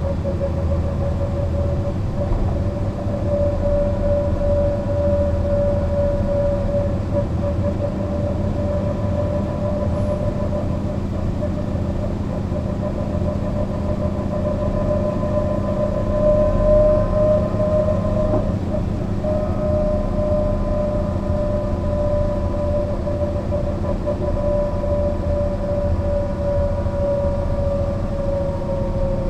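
Mercedes-Benz O 405 NÜ bus driving at a steady speed: diesel rumble with a steady whine over it, which climbs slightly about halfway through and falls away near the end as the bus eases off.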